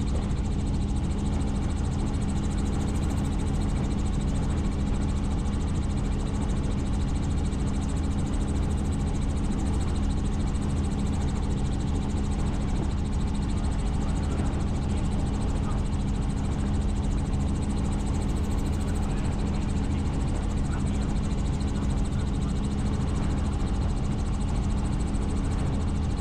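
Helicopter in flight: steady engine and rotor drone with a strong low hum, unchanging throughout.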